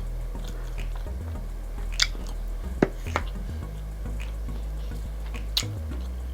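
Close-miked chewing and mouth sounds of a person eating. Four sharp clicks come through, the loudest nearly three seconds in, over a low steady hum.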